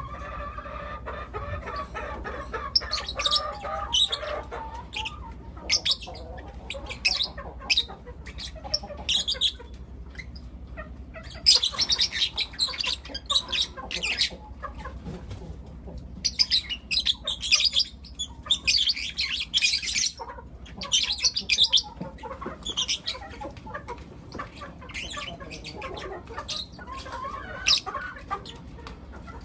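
Lovebirds chirping in quick, shrill bursts, clusters of sharp chirps coming and going, with a lower, drawn-out call in the first few seconds. A steady low hum runs underneath.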